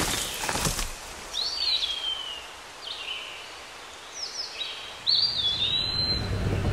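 Songbirds singing in woodland: clear whistled phrases, two longer ones that rise and then slide down, about a second and a half in and about five seconds in, with shorter notes between. A loud rushing noise fades out in the first second.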